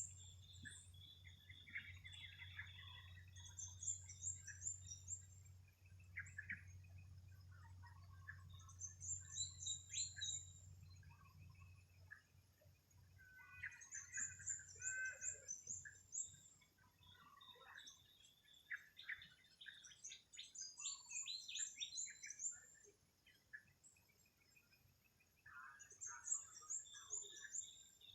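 Several small birds calling and singing in a faint morning chorus. One bird repeats a short, high, rapid phrase about every five to six seconds, while others give scattered chirps. A low steady hum fades out about halfway through.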